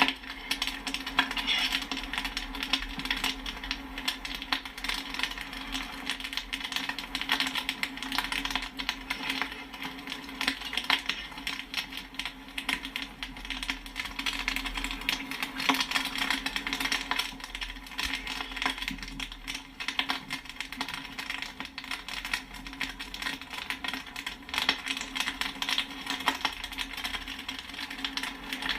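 Popcorn popping: many sharp pops and pings in quick, uneven succession, over a steady low hum.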